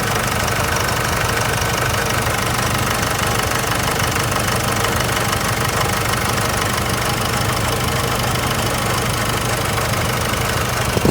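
Nissan Navara's engine idling steadily with the air conditioning switched on, just after the A/C system has been regassed.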